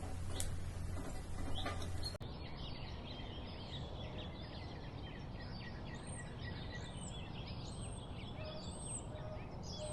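Birds calling: a dense run of short, rapid chirps that starts suddenly about two seconds in, after a low hum.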